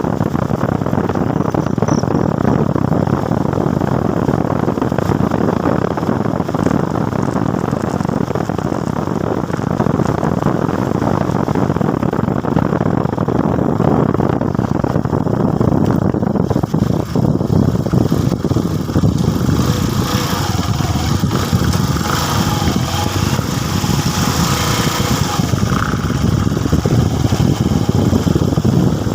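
Motorcycle running under way on the road, heard as a dense, steady rushing noise. A brighter hiss joins in from about twenty seconds in.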